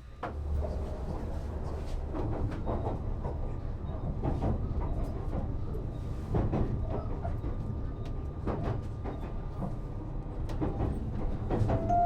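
Train noise: a steady low rumble with irregular clicks and knocks, starting suddenly.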